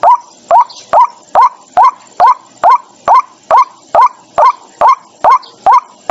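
White-breasted waterhen calling: a steady run of short, harsh notes, each rising in pitch, about two and a half a second.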